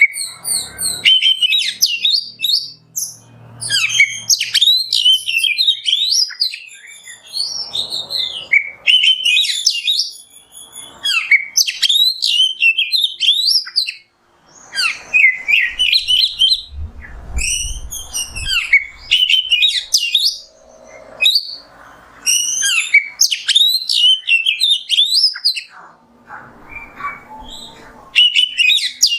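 Oriental magpie-robin singing: loud, rich phrases of rapidly changing whistles and chirps, delivered in bursts of a few seconds with short pauses between them.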